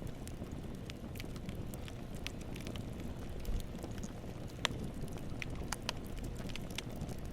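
Campfire burning with a steady low rush of flame and scattered crackles and pops from the wood, one sharper pop a little past the middle.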